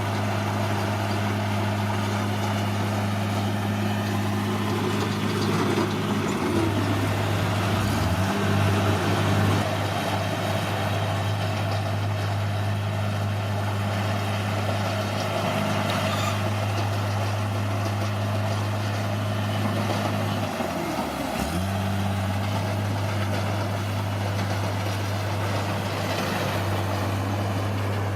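Bulldozer's diesel engine running steadily with a low drone. Its pitch sags and recovers twice, about a quarter of the way in and again about three quarters of the way in.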